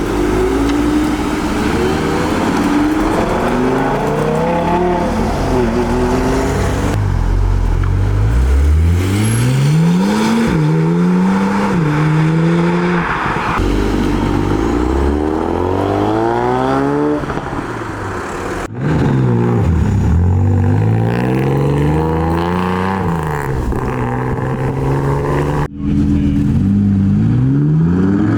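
Sports car engines revving and accelerating, the note climbing and dropping again and again with throttle blips and gear changes. The sound cuts off abruptly twice, late in the stretch.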